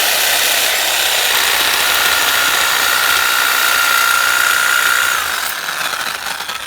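Electric power saw running with a steady high whine while cutting metal on the car; the motor is let off about five seconds in and winds down.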